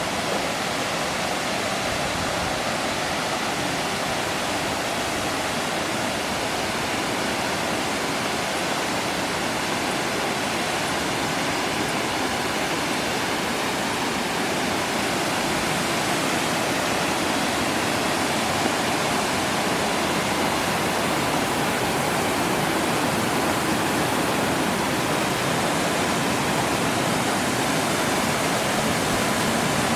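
Rushing water of Mackenzie Falls, a large waterfall, as a steady even roar of falling water that grows slowly louder as the falls come nearer.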